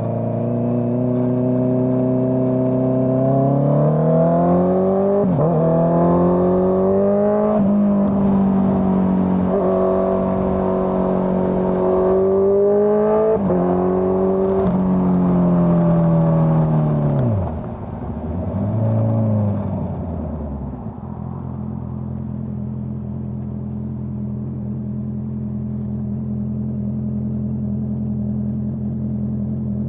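Honda CBR650R inline-four motorcycle engine through a Dominator GP full-system exhaust, accelerating with its pitch climbing and dropping at three upshifts, then revs falling as it slows, with a short rev partway down, before settling to a steady low idle.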